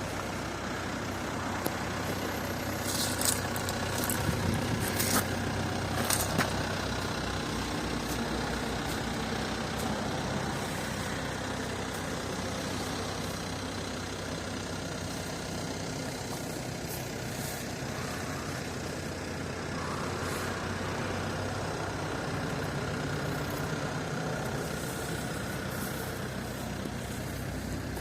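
Mercedes V-Class 220 CDI's four-cylinder common-rail diesel engine running steadily at idle, with a few sharp clicks a few seconds in.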